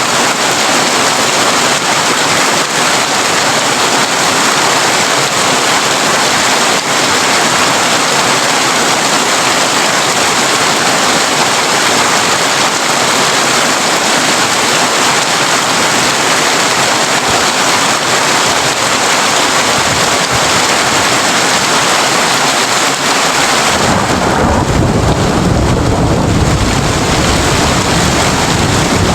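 Heavy rain falling on a tin roof, a steady loud hiss. About 24 seconds in, a low rumble of thunder rolls in under the rain.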